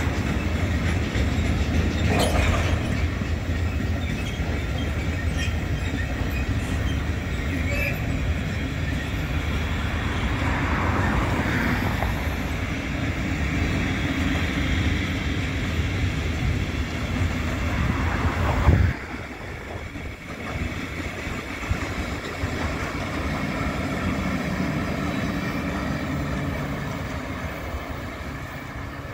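Freight train of covered wagons and tank wagons rolling past: a steady low rumble of wheels on rail with clatter and brief squeals. It drops suddenly in loudness about two-thirds of the way through and goes on more quietly.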